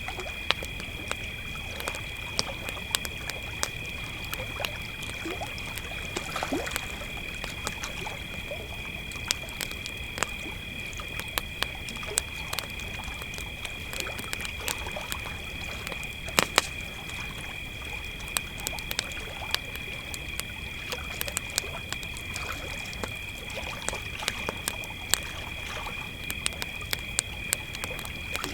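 Campfire crackling with scattered sharp pops, the sharpest about sixteen seconds in, over a steady high trill of crickets.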